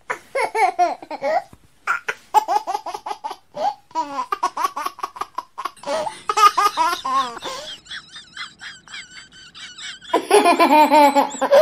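High-pitched human laughter in quick repeated bursts, loudest near the end.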